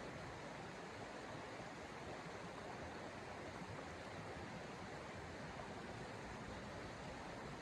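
Steady, even rushing of snowstorm wind.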